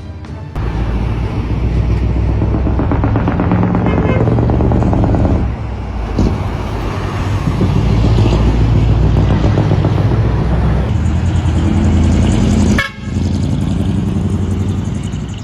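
A dekotora truck's diesel engine revving loudly through twin mufflers, easing off about five seconds in and cutting out for a moment near the end.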